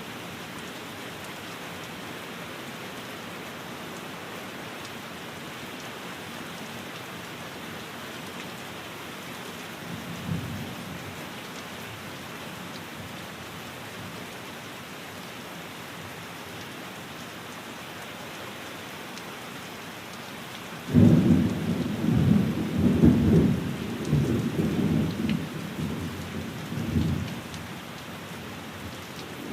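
Steady rain falling on a window, with a short low rumble of thunder about ten seconds in and a louder rolling peal of thunder starting about two-thirds of the way through and lasting several seconds.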